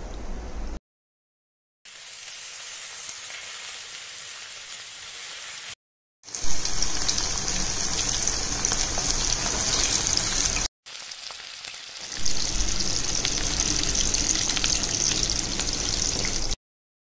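Cornflake-coated chicken pieces deep-frying in hot oil: a steady sizzle and crackle, broken by short silent cuts and flaring louder twice.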